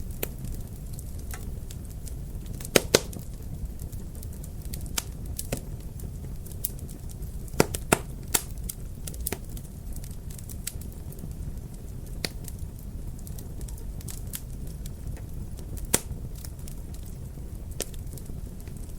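Wood fire crackling in a fireplace: a steady low rumble with scattered sharp pops, the loudest a close pair about three seconds in, a bunch around eight seconds and a single one near sixteen.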